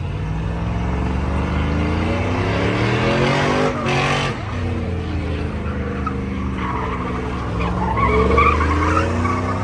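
Truck engine revving hard during a burnout with tires squealing. The revs climb over the first four seconds, fall back, then climb again near the end.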